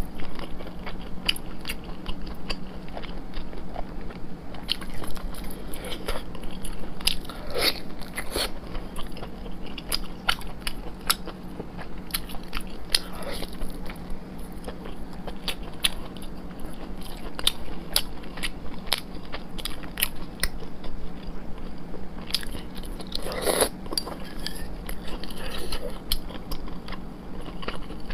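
Close-miked mouth sounds of a person biting and chewing soft, fatty braised pork belly, with many quick sharp clicks and smacks scattered throughout.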